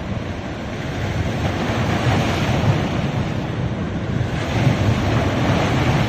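Ocean surf washing onto a beach, swelling twice as waves break, with wind rumbling on the microphone.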